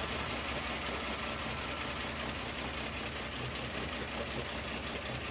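1975 Plymouth Duster's engine idling steadily just after being started, still cold and warming up.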